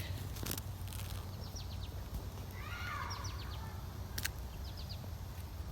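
A bird calling in the background: several short runs of four or five quick, high chirps, each dropping in pitch, over steady low outdoor background noise, with two sharp clicks.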